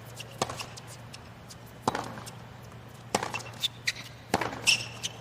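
Tennis rally on a hard court: sharp racket-on-ball hits about every second and a half, with lighter ticks of bounces and footwork between them. A brief shoe squeak comes near the end.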